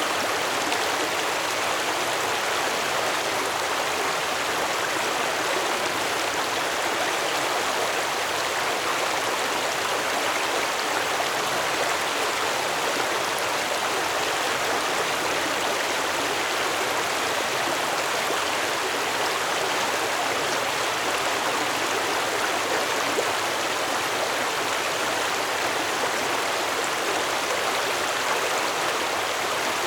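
Stream water flowing steadily, an even rushing babble with no breaks.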